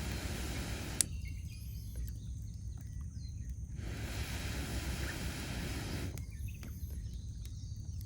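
Wood campfire burning with a steady low rumble, one sharp pop about a second in and a few faint crackles after it.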